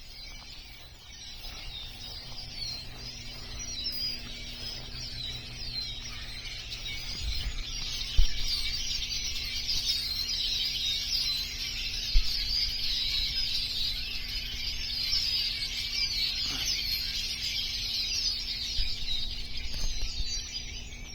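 A huge flock of birds massed in cattails, singing and calling all at once in a dense, continuous chorus of chirps that grows louder over the first half and falls away near the end.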